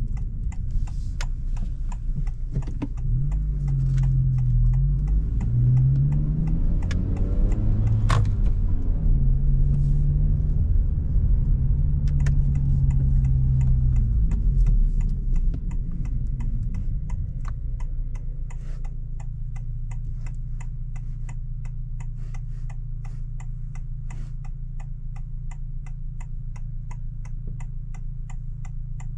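Honda Civic Si's 1.5-litre turbocharged four-cylinder pulling up through the gears, its pitch climbing and dropping at each shift, then settling to a steady idle about halfway through. Through the idle a turn signal clicks steadily.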